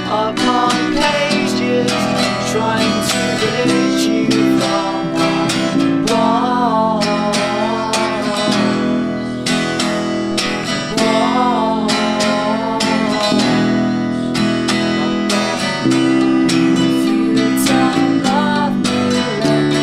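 Acoustic band music: steadily strummed acoustic guitar chords over sustained low notes, with a wavering melody line coming in twice around the middle.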